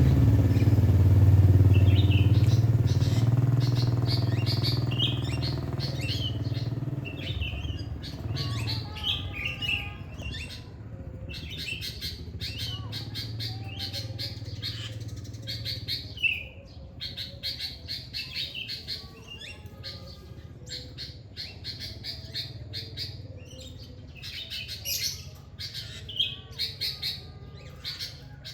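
Songbirds chirping in quick, repeated short calls. A motor vehicle's engine hum fades away over the first several seconds.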